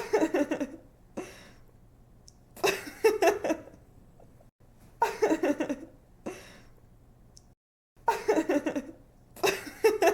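A young woman laughing in short giggling bursts, about five in a row, each lasting around a second with brief pauses between.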